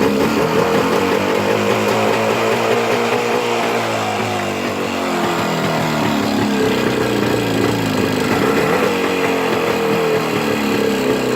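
Jawa 350 two-stroke twin motorcycle engine running just after a cold start: the revs sag about four seconds in, then pick up again and hold.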